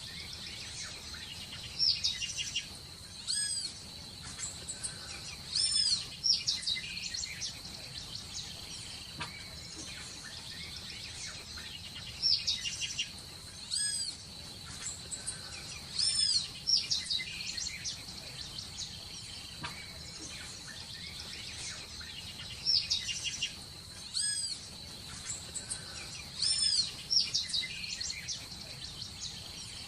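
Birds calling in clusters of short, arching whistles and chirps over a steady, high insect drone; the same run of calls comes round about every ten seconds.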